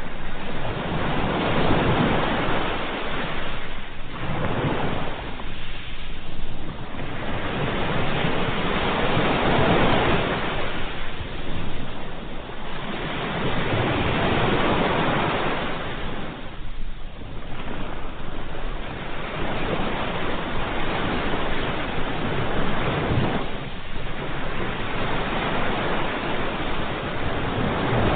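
Ocean surf: waves rushing in and easing back in a steady cycle, swelling roughly every four seconds.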